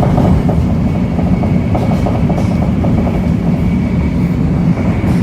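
Nozomi Shinkansen bullet train running at high speed, heard from inside the passenger car: a steady, loud low rumble with a faint, steady high whine over it.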